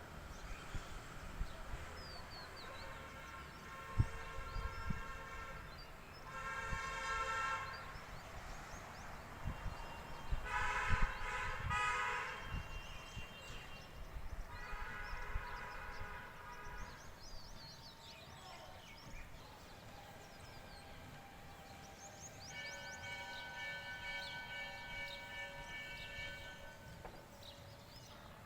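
Several long horn blasts, some at different pitches, the longest about five seconds near the end, sounding one after another with gaps between them.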